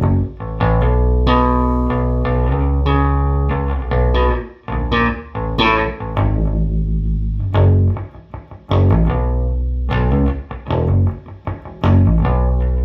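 1974 Fender Precision Bass played through a 1973 Fender Quad Reverb guitar combo amp loaded with Weber Legacy speakers, set with treble high: a run of plucked bass notes, some held and ringing, with a couple of short pauses.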